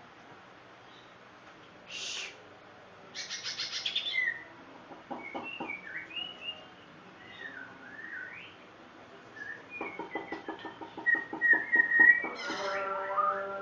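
White-rumped shama singing a varied, continuous song. It mixes short harsh notes, a fast trill, clear whistles that slur up and down, and a rapid rattling series near the end.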